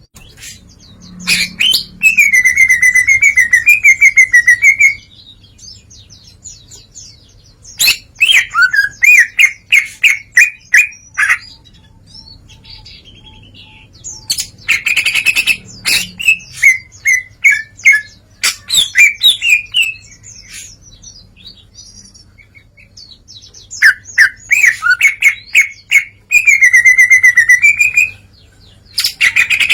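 A green leafbird (cucak ijo) singing loudly in four long bursts of rapid trills, warbles and sharp chattering notes, with pauses of a few seconds between them. It is in full song, running through its learned repertoire.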